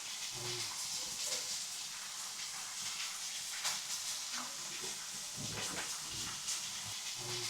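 Meat sizzling on a hot marble slab over a wood fire: a steady high hiss with scattered sharp pops.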